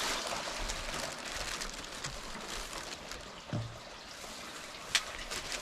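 Spring water running in a steady trickling stream, with a sharp click near the end.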